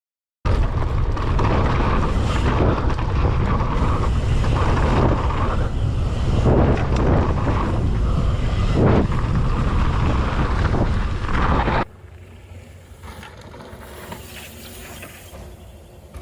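Wind buffeting the microphone and a low rumble as a mountain bike is ridden fast down a dirt jump line. About twelve seconds in the loud rush cuts off abruptly, leaving a much quieter rumble.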